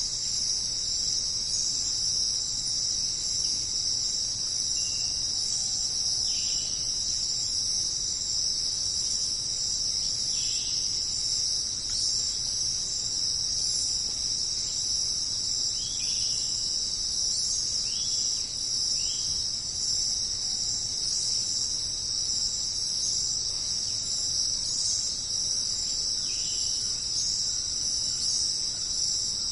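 Dense, steady jungle insect chorus, a high shimmering buzz, with a few short falling chirps scattered through it. No thunder or rain is heard.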